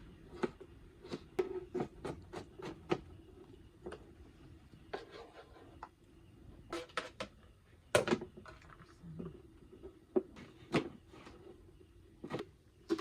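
Irregular knocks and clicks of kitchen utensils and cookware being handled: a dozen or so sharp strikes at uneven intervals, the loudest about eight seconds in and again near eleven seconds.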